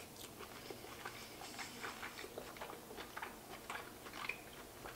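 Faint chewing of lobster meat close to the microphone: irregular soft wet clicks and smacks of the mouth.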